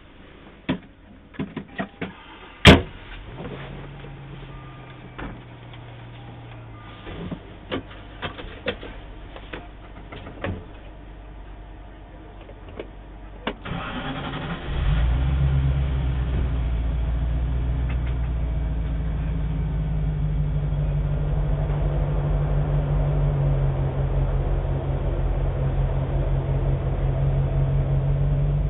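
Scattered small clicks and knocks, with one sharp click about three seconds in; then, about halfway through, an off-road vehicle's engine starts and settles into a steady idle.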